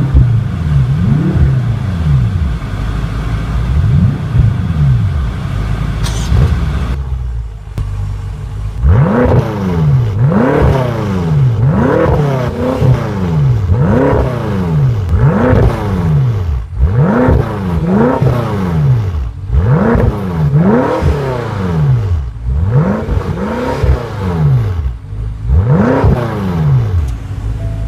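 Twin-turbocharged 4.4-litre V8 of a 2014 BMW M5 F10 being blipped while parked, just after start-up. A few lighter revs, a short lull about seven seconds in, then more than a dozen quick, evenly spaced revs, each rising and falling back.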